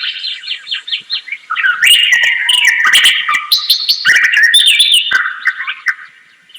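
Birds chirping: a quick run of short chirps, then from about a second and a half in a busier stretch of twittering with several calls overlapping, fading near the end.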